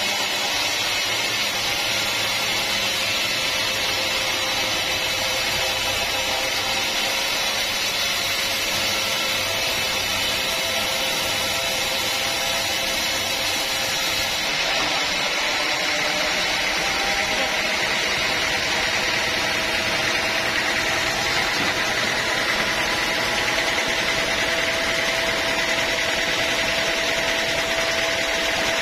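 Sawmill saw running steadily under power, a continuous machine noise with a high whine, as it cuts wood.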